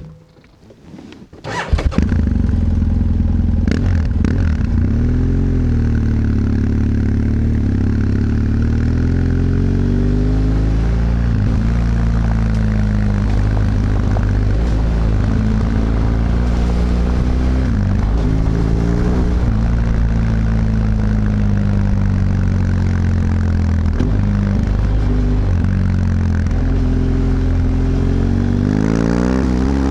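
BMW F 800 GS parallel-twin motorcycle engine being started about two seconds in, catching at once and then idling steadily with small blips of the throttle, and rising in pitch near the end.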